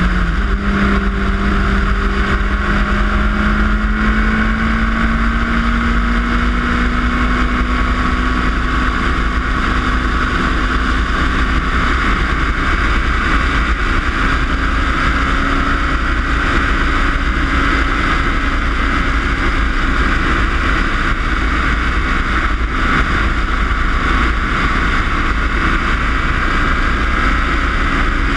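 Suzuki Hayabusa's inline-four engine pulling steadily at highway speed. Its pitch rises slowly over the first half as the bike gains speed, then holds steady. Heavy wind rumble on the bike-mounted microphone runs underneath.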